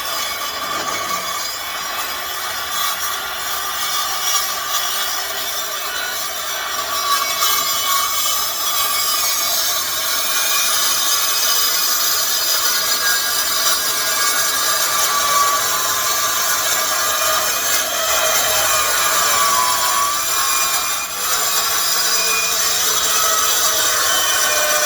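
Milwaukee 8-inch metal-cutting circular saw running and cutting through a metal tube on a truck frame. It is a loud, steady grinding whine, with a brief dip a few seconds before the end.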